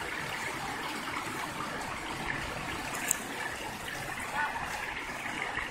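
Running water, a steady rush and trickle, with a faint brief chirp about four seconds in.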